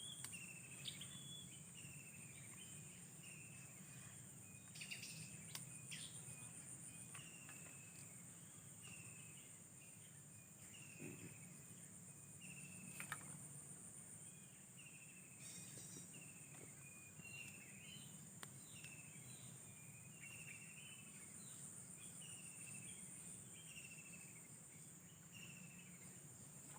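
Faint outdoor ambience of insects, likely crickets, holding a steady high trill, with short falling bird chirps repeating every second or so over a low background hum.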